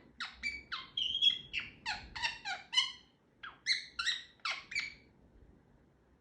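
Pet talking parrot chattering: a quick run of short, high-pitched calls, about three a second, stopping about five seconds in.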